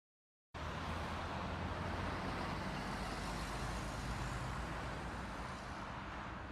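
Steady vehicle and road noise with a low rumble underneath, cutting in abruptly after dead silence about half a second in.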